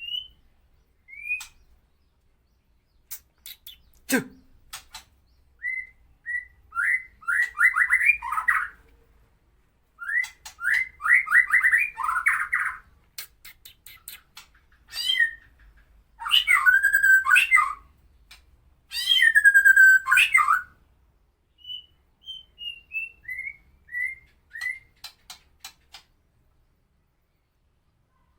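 White-rumped shama of the Medan type singing its harsh 'tembakan' song, phrase after phrase with short pauses. The song mixes brief whistled notes, fast runs of repeated notes, loud rasping calls and a string of short falling notes. One sharp tap comes about four seconds in.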